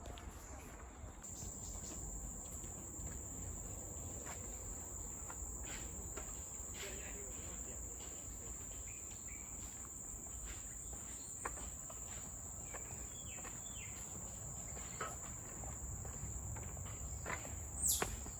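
Steady, high-pitched drone of forest insects such as crickets or cicadas, one unbroken note that grows stronger about a second in. Faint footsteps tick under it, and a brief louder sound falls in pitch near the end.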